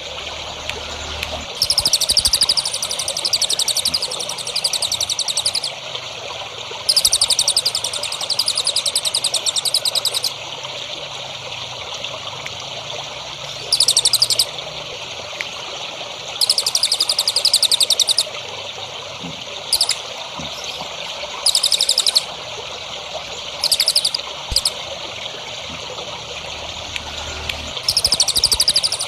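A small songbird singing about eight bursts of rapid, high, buzzy trills, each lasting from under a second to about four seconds, over steady trickling water.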